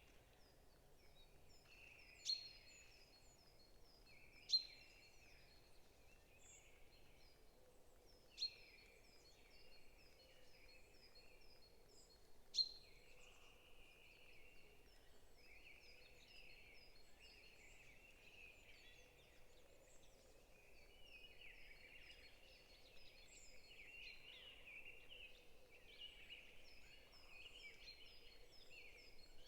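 Several forest birds calling and chirping, faint overall: rapid runs of short high notes repeat over a lower, continuous twittering. Four sharp, louder calls stand out in the first half.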